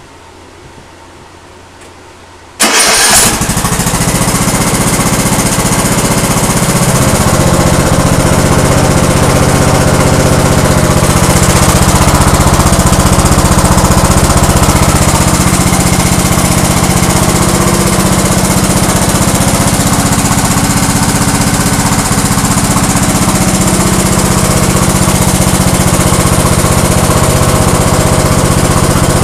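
Lawn tractor engine starting about two and a half seconds in, then running steadily.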